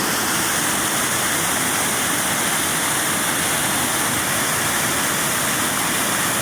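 Steady, loud rush of a waterfall on the young River Severn, water pouring over rock.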